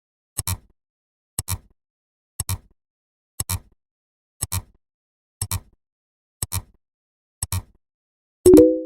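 Counting sound effect: a short, sharp double click about once a second, eight times, then a louder pitched beep near the end.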